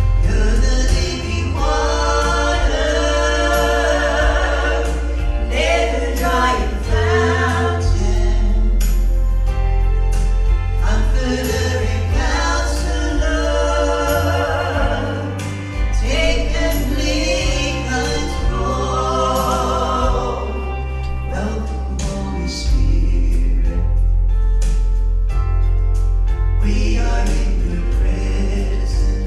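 Gospel group singing in harmony over an instrumental accompaniment with a strong bass and a steady beat.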